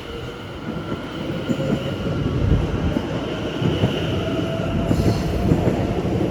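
Greater Anglia Class 720 electric multiple unit pulling away from the platform. Its traction equipment gives a steady electric whine over the rumble of wheels on rail, and the sound grows gradually louder.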